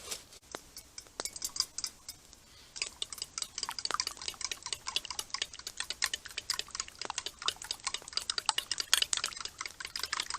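A fork beating eggs, clicking rapidly and continuously against the side of its container. It starts about three seconds in, after a few scattered clinks of utensils being handled.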